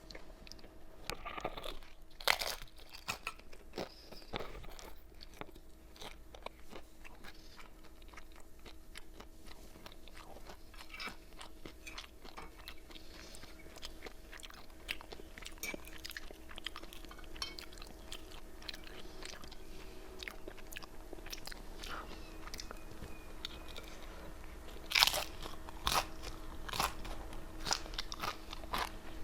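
Close-up crunching and chewing of crispy fried wonton-wrapper chips: sharp bites and crackling chews throughout, loudest about two seconds in and again near the end.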